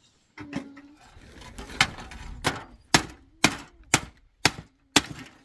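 A tool striking wood again and again in a steady rhythm, about two blows a second, starting about two seconds in.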